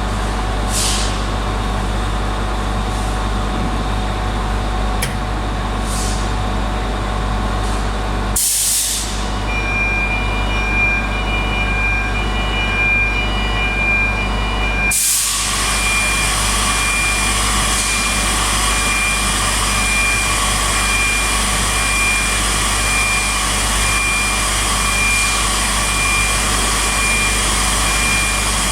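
Industrial machinery running with a steady low hum during loading of a vacuum heat-treatment furnace. There are two sharp hisses of released air, and a high warning beep that starts repeating after the first hiss. A steady hiss continues after the second.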